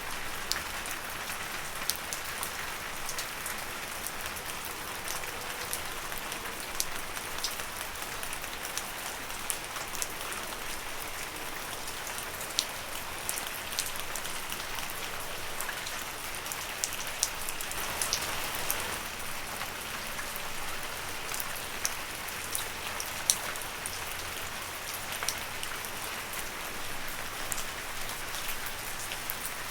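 Steady rain falling on leaves: an even hiss with many separate drops ticking sharply.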